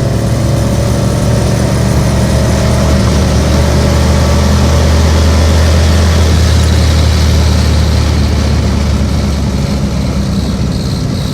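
A BMW E36 running under way on its swapped-in Ford Foxbody Mustang engine, heard from inside the cabin. The engine drones steadily, swelling a little through the middle and easing toward the end.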